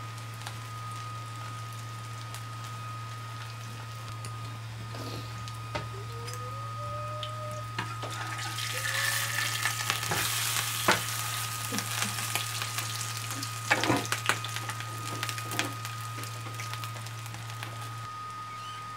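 A beef chapli kabab patty frying in shallow oil on a flat tawa griddle, sizzling steadily. About halfway through, the sizzle grows louder and breaks into sharp crackling pops of spitting oil.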